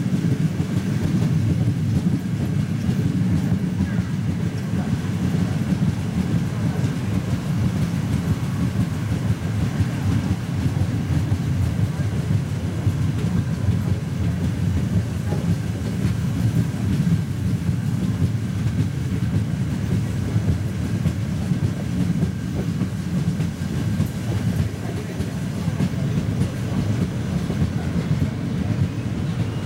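Passenger train carriage running along the track, heard from its open window: a steady, unbroken rumble of wheels on rails.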